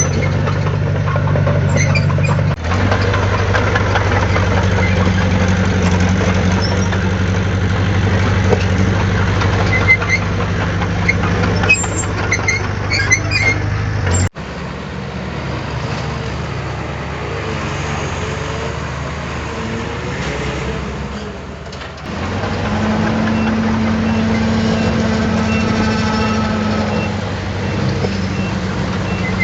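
Heavy diesel earthmoving machinery running steadily, with a deep engine drone. The sound changes abruptly three times: about two and a half, fourteen and twenty-two seconds in.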